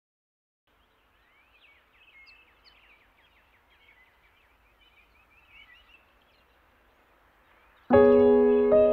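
Background music: faint, rapid high chirps, then near the end a loud sustained keyboard chord comes in suddenly.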